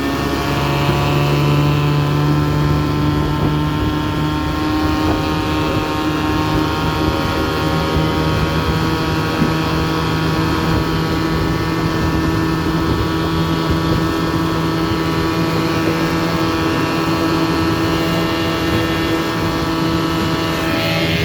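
1983 Johnson 7.5 hp two-stroke twin outboard motor running under throttle, pushing the boat at speed. Its pitch climbs over the first few seconds, then holds steady.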